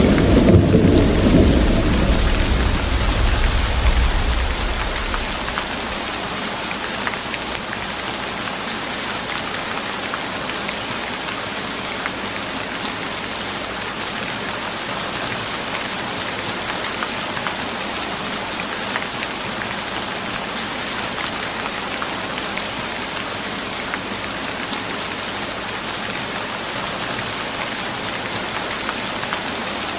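A roll of thunder rumbling and dying away over the first few seconds, then steady heavy rain falling and pattering.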